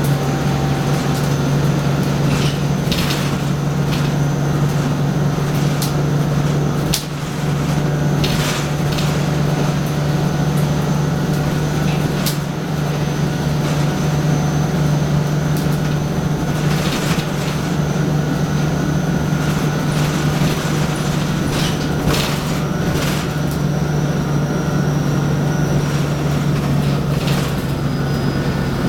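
Turbocharged Detroit Diesel 6V92TA two-stroke V6 of a 1995 NovaBus Classic city bus running at a steady pace, a deep even drone with a thin high turbo whistle over it and occasional rattles.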